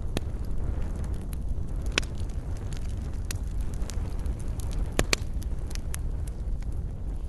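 Wood campfire burning: a steady low rumble of flame with scattered sharp crackles and pops of burning wood, the loudest about two and five seconds in.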